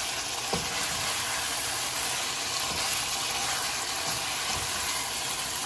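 Chicken pieces frying in their masala in a pan, sizzling steadily: the bhuna stage, with the liquid cooked off and the oil separating.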